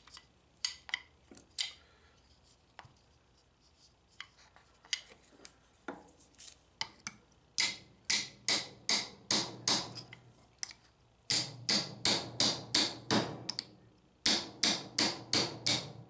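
A hammer tapping on metal, a few scattered light taps at first, then three runs of sharp, regular strikes at about two to three a second, working at a corroded drive gear in a vending machine's rotor gearbox to break it loose.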